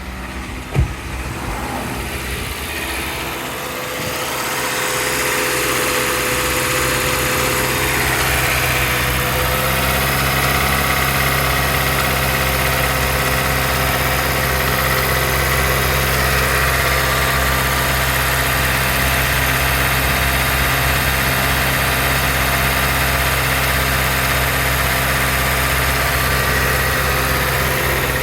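2017 Dodge Journey engine idling steadily, with one sharp knock just under a second in. The sound grows louder and fuller about four to five seconds in and then holds steady.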